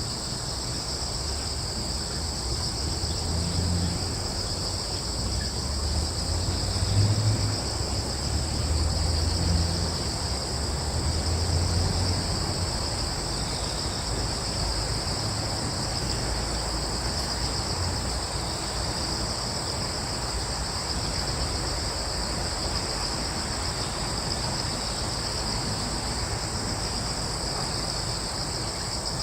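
Crickets chirring in a steady, continuous chorus, high-pitched. Between about three and twelve seconds in, a low rumble swells and fades under them.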